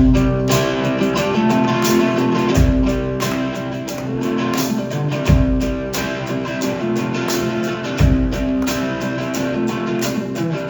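Live band playing a country song's instrumental intro: strummed guitars over a steady beat, with a deep low hit about every two and a half seconds.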